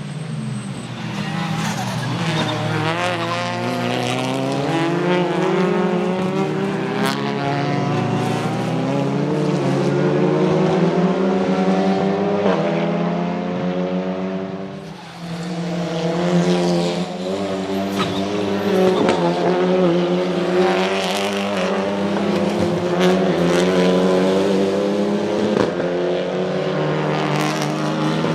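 Hyundai Elantra N's turbocharged 2.0-litre four-cylinder engine and exhaust accelerating hard, the engine note climbing. The note drops briefly about halfway through, as at a shift or a lift off the throttle, then climbs again. A few sharp cracks sound over the engine.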